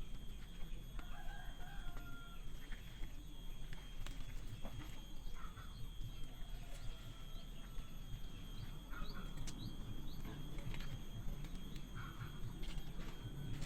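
Chickens clucking, with a rooster crowing now and then. Short high chirps and a steady high tone run through the background.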